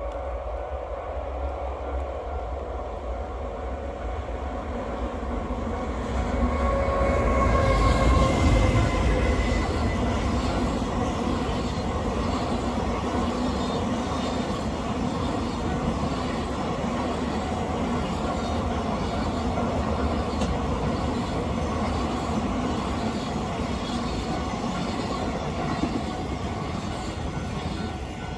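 Unseen train running in the tunnel: a steady rail rumble that swells about six seconds in, with high squealing tones sliding slightly down around eight seconds, then holding at a lower level.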